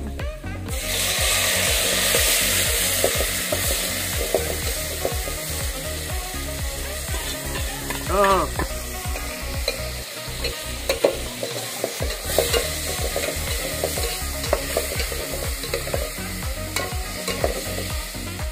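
Chopped green leaves dropped into hot oil in an aluminium pot sizzle loudly, starting sharply under a second in. The frying then hisses steadily while a metal ladle stirs and clicks against the pot.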